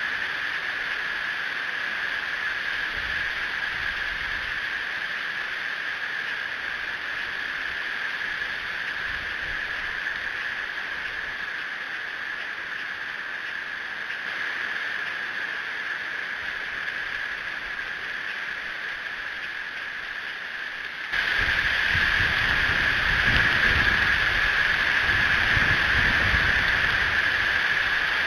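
Strong wind on an outdoor camera's microphone: a steady rushing hiss that jumps louder about 21 seconds in, with low rumbling buffets from then on.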